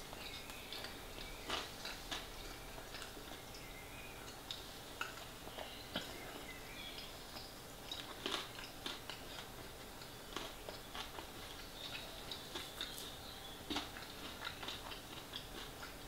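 A person chewing a mouthful of pie with the mouth closed: irregular soft wet mouth clicks and smacks, a few of them louder.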